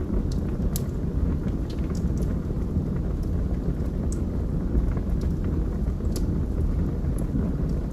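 Wood fire burning in a fireplace: a steady low rumble of flames with sharp, irregular crackles and pops from the burning logs, about a dozen of them scattered through.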